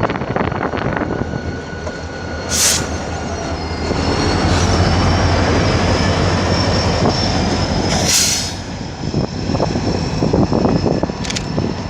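Train rolling past on the rails, with a steady rumble and a high, sustained wheel squeal. There are two short hissing bursts, and in the last few seconds a clatter of wheels over rail joints.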